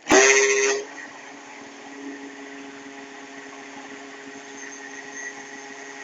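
Kitchen blender switched on with a click and run briefly at full speed, its motor pitch settling as it spins up, then cut back after under a second. A much quieter steady motor hum carries on after that.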